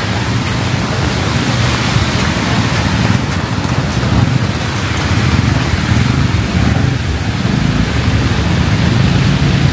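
Heavy rain falling as a steady hiss, with the low rumble of city street traffic underneath.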